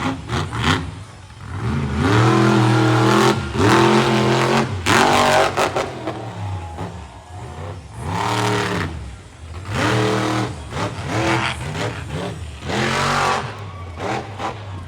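Monster truck engine revving hard in repeated bursts, its pitch swelling up and dropping back about five times, loudest for a few seconds early in the stretch.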